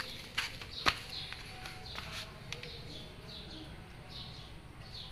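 Small birds chirping over and over in short, high, falling chirps. Two sharp clicks sound about half a second and a second in.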